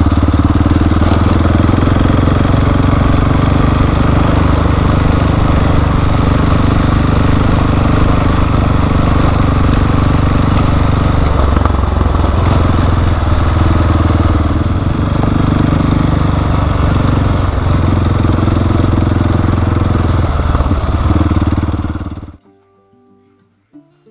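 Motorcycle engine running steadily under way. It eases and changes pitch a few times midway, then cuts off suddenly near the end.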